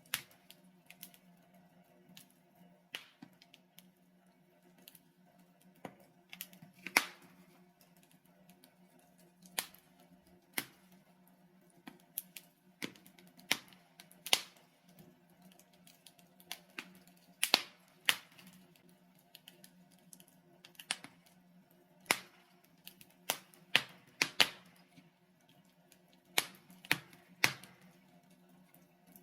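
Wood fire of burning logs crackling, with irregular sharp pops and snaps, some much louder than others, over a faint steady low hum.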